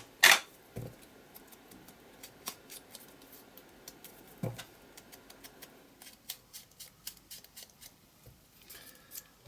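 Scissors snipping washi tape to trim it at a corner of a paper page: one sharp snip just after the start, then many small faint clicks and snips of tape and paper being handled.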